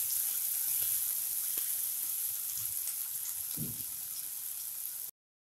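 Chopped onions sizzling in hot oil in a kadai, sautéing toward light brown, with a spatula stirring them at first. The steady hiss fades a little and cuts off suddenly near the end.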